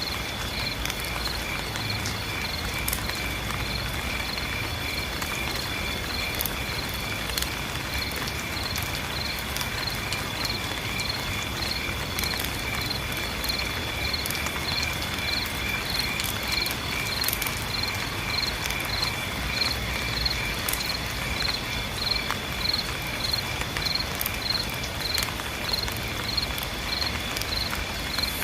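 Insects chirping in a regular pulse a few times a second over a continuous high-pitched buzz, with a steady hiss of rain and scattered drip ticks beneath.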